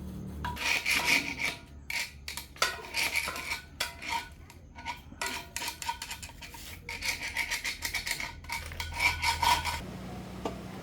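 A hand tool scraping metal in a series of quick, uneven rasping strokes, with a faint metallic ring, as in filing or scraping a machine part during repair.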